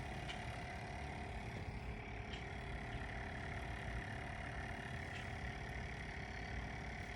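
Faint steady motor hum, a constant whine over a low rumble, holding even throughout.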